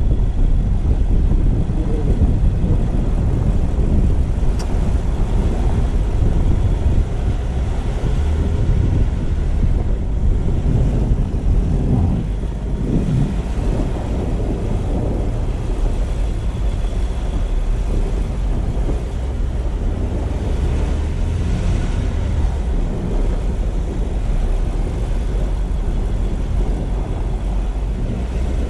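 Car driving: a steady low rumble of engine and tyre noise, with a brief rise and fall in pitch about twelve seconds in.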